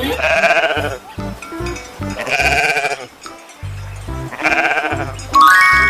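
Sheep bleating three times, each a short wavering bleat under a second long, over background music.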